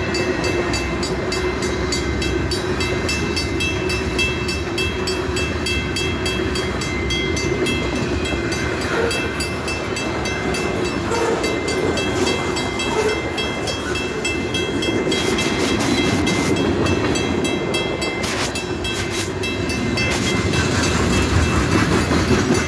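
Freight cars of a passing train rolling steadily over the rails through a level crossing, growing a little louder near the end. Over it the crossing's warning bell rings in a fast, even rhythm.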